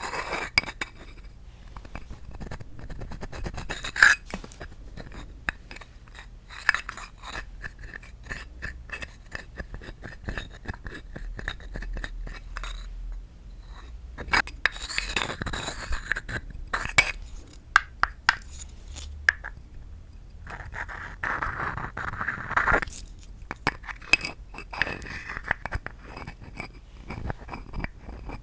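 Close-up tapping on wooden objects: quick, irregular taps and clicks. There are two stretches of scratching across the wood, about halfway through and again about three-quarters of the way through.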